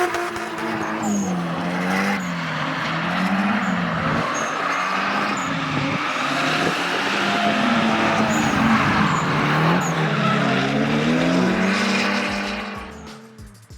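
A 4-litre 1UZ Toyota V8 in a Lexus IS300 drift car revs up and down repeatedly as the car slides, with tyre squeal throughout. It fades out near the end.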